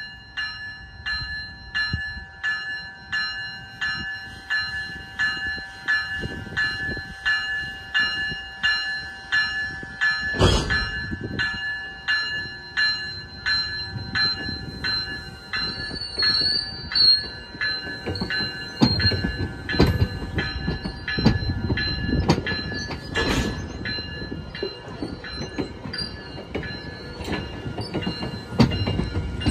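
GO Transit bilevel passenger train rolling slowly through a yard, its warning bell ringing about twice a second. The wheels clank over rail joints and switches, with two loud bangs about ten and twenty-three seconds in, a brief wheel squeal, and denser clanking in the last third.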